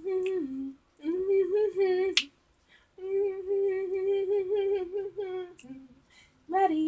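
A woman humming a melody in short phrases of held, fairly level notes, with a few sharp clicks between the phrases.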